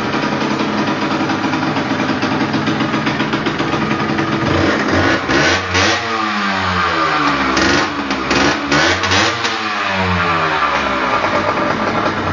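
Small motorcycle engine sound running, revving up and down twice through the middle, with a few short sharp pops during the revs.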